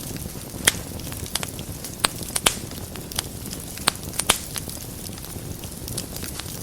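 Wood fire burning in a fireplace, crackling and popping at irregular intervals over a steady low rumble of flames; the loudest pops come about two and a half seconds in and again around four seconds.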